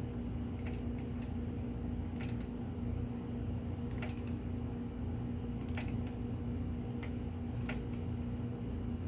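Short, sharp metallic clicks from a wrench being worked as a fastener is tightened, coming in small clusters every second or two over a steady low hum.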